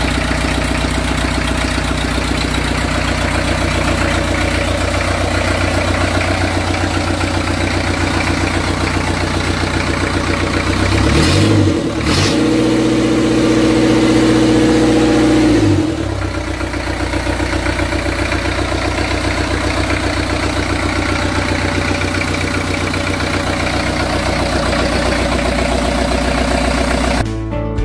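Freshly rebuilt Land Rover Series III 2.25-litre four-cylinder diesel engine, five-main-bearing version, idling steadily. About eleven seconds in it is revved up, held higher for about four seconds, then drops back to idle.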